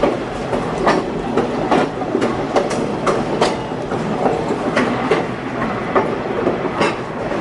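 Passenger train rolling along the track: a steady rumble of wheels and cars, broken by frequent sharp, irregular clacks as the wheels cross rail joints.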